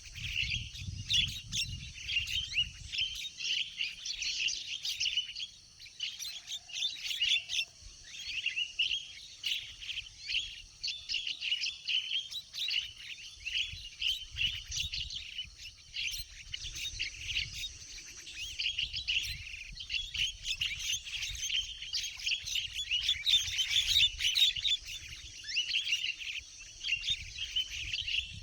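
Birds chirping and calling in rapid, overlapping bursts, with a low rumble in the first few seconds.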